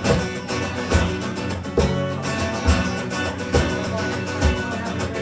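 Live guitar music: a strummed instrumental passage between sung verses, with a steady low beat a little less than once a second.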